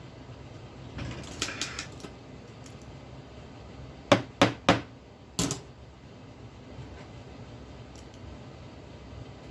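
Small metal tools and parts handled on a workbench: a brief light rattle about a second in, then four sharp taps or knocks in quick succession around four to five and a half seconds in.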